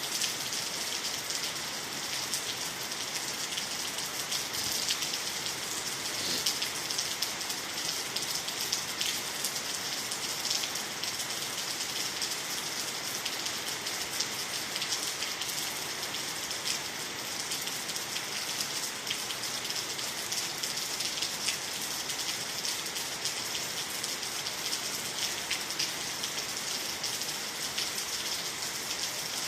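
Steady rainfall on water, trees and the ground, an even patter of many drops that neither builds nor eases.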